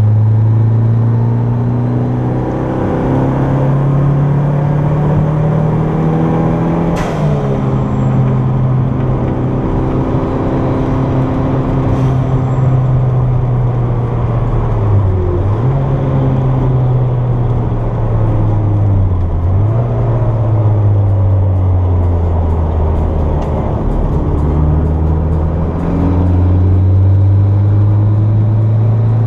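Toyota MR2's turbocharged engine heard from inside the cabin, pulling hard on a track lap, its pitch climbing and dropping with throttle and gear changes and dipping briefly twice in the middle. A sharp click about seven seconds in, as the revs fall away.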